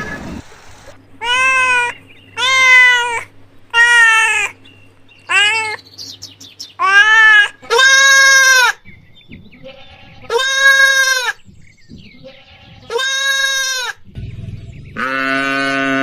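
An animal bleating: about eight short, high calls, each rising then falling in pitch, spaced a second or two apart. Near the end a longer, deeper call begins.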